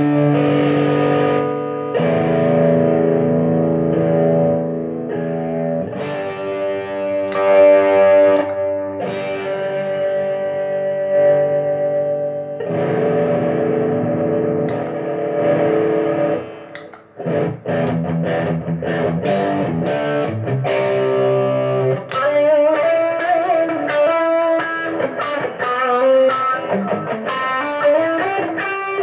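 Electric guitar (Fender HHH) played through effect pedals into a Marshall AVT50 amp: sustained chords for the first half, then a short gap and quicker single-note lines about two thirds of the way in.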